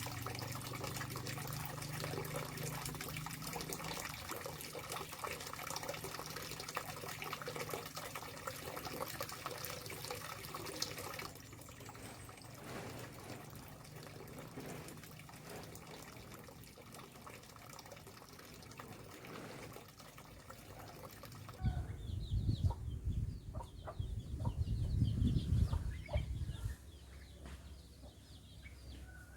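Outdoor rural ambience: a steady rushing like running water for the first stretch, chickens clucking, and from about two-thirds of the way in, gusts of wind buffeting the microphone with a low rumble.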